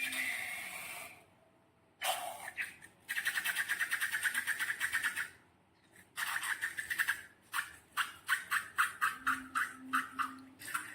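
Hands working slime with a rubber balloon, making short squishy, rubbing noises: a quick run of about eight strokes a second, then a string of separate squishes near the end.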